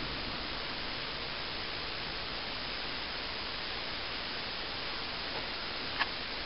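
Steady, even hiss of background noise, with one faint short click about six seconds in.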